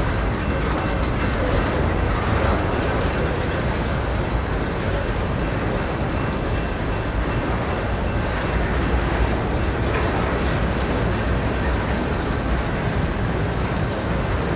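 Empty covered hopper cars of a freight train rolling past close by: a steady rumble of steel wheels on the rails.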